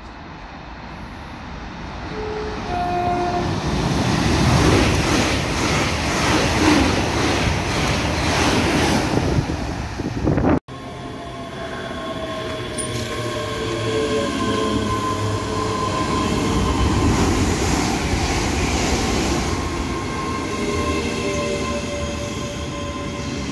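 ScotRail Class 385 electric multiple unit approaching and running in along the platform, its rumble building over the first ten seconds. After a brief dropout about ten seconds in, a steady whine with a slowly falling tone as the train comes alongside and slows.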